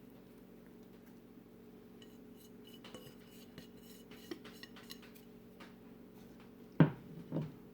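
A kitchen utensil lightly clinking against a dish several times, then two sharp knocks about half a second apart near the end.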